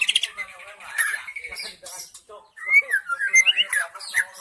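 White-rumped shama singing: a run of clear whistled notes that glide up and down, strongest in the second half.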